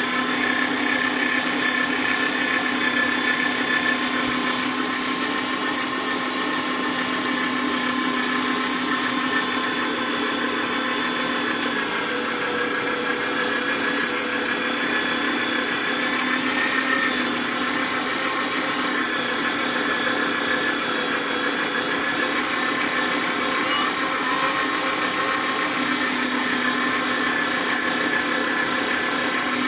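Kenwood electric meat grinder's motor running steadily while grinding meat, a constant whine that holds one pitch.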